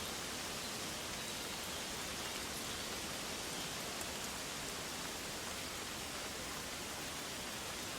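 Steady, even hissing wash of a forest ambience soundscape, with faint scattered ticks in the high end and no clear tones.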